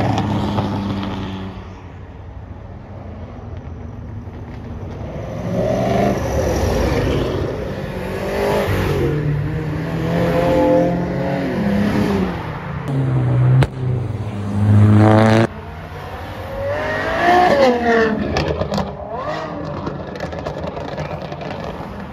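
Performance cars accelerating hard one after another, engines revving up through the gears, each pull rising in pitch and then fading; one pull cuts off suddenly about two-thirds of the way through.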